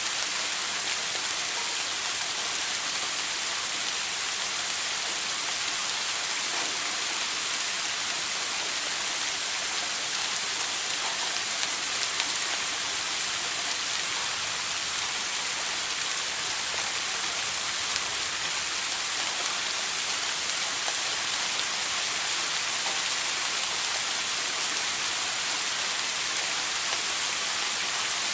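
Shower water spraying steadily, a continuous even hiss of falling water with no breaks.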